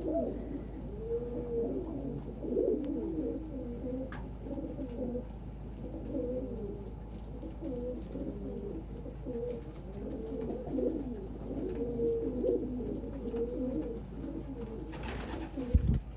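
Several domestic pigeons cooing at once, their low warbling coos overlapping without a break, with a few faint short high chirps. A brief noise across many pitches comes near the end.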